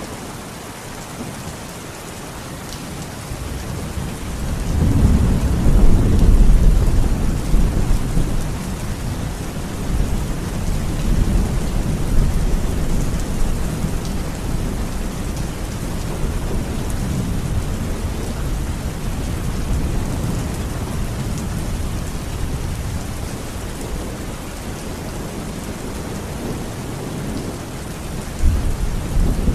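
Steady heavy rain with rolling thunder: a deep rumble builds about four seconds in, peaks a few seconds later and slowly dies away, and another roll of thunder begins near the end.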